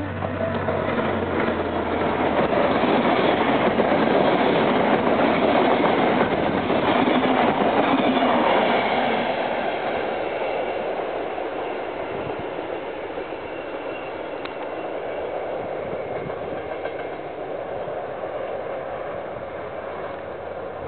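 Adtranz-built diesel locomotive and its passenger coaches passing close by: the noise of engine and wheels on the rails swells to its loudest in the first few seconds, then fades slowly as the train runs away into the distance.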